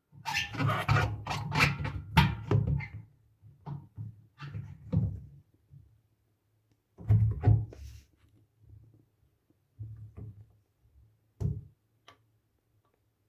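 Irregular knocks, clicks and clatter of objects being handled, busiest in the first three seconds and again about seven seconds in, then single scattered knocks with quiet gaps between.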